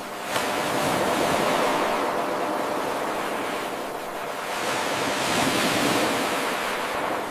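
Looped recording of ocean waves washing in, swelling and ebbing twice. It starts abruptly a moment in, where the eight-second loop begins again.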